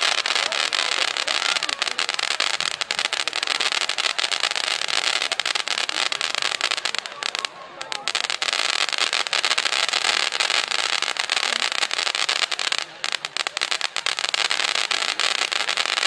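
Firework going off with a continuous, dense crackle of many rapid small pops, dropping out briefly twice.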